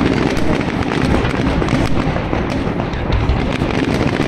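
Large fireworks display in a dense barrage: many overlapping bangs and crackles with no gap between them, at a steady loud level.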